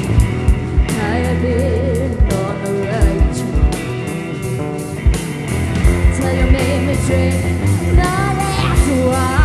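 Live psychedelic rock band playing, with a steady drum beat, bass and electric guitar, and a voice singing held, wavering notes over them.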